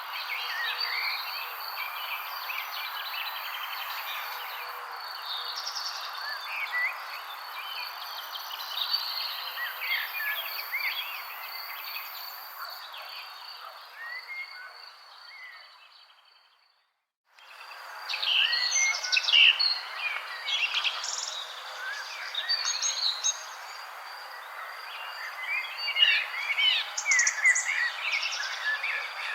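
Many wild birds chirping and trilling over a steady hiss, with a thin steady high tone beneath. The sound fades out to silence a little past halfway, then starts again abruptly.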